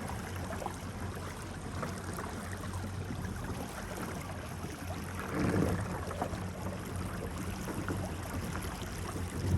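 Small boat moving across floodwater: a steady low motor hum under the wash of water, swelling louder about halfway through.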